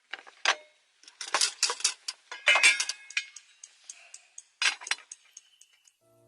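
Irregular run of sharp clicks, rattles and clinks, loudest in the middle, some with a brief metallic ring, like hard objects being handled and knocked together.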